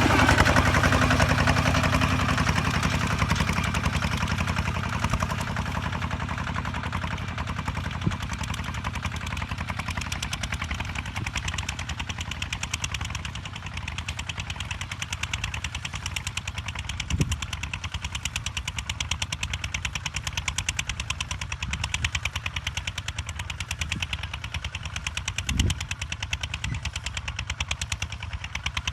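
Kubota ZT155 single-cylinder diesel engine running with a fast, even chugging of exhaust beats. It eases down in loudness over the first few seconds, with an occasional brief knock later on.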